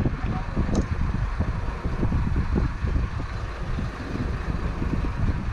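Continuous low rumble of wind buffeting the microphone on a boat at sea, uneven and gusty, with a faint click about a second in.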